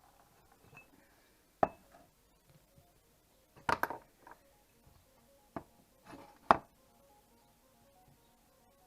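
Metal parts of a split-rim quad wheel clinking and knocking as the rim is taken apart into its two halves: about five sharp metallic knocks with a brief ring, the loudest a little past halfway.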